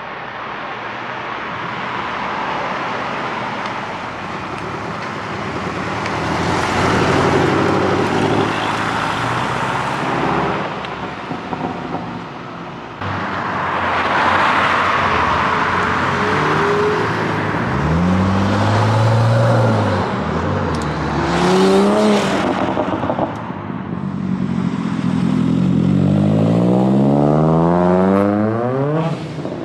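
Several cars driving past one after another. Their engines rev up and down, with two short revs part-way through. Near the end one car accelerates hard, its engine note climbing steadily through the gears as it passes.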